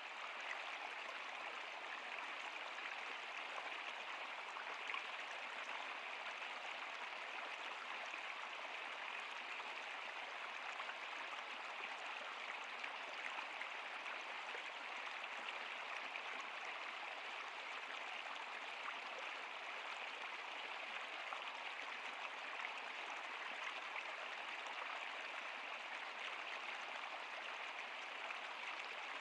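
Stream water flowing and splashing in a steady, even rush, with small droplet splashes scattered through it.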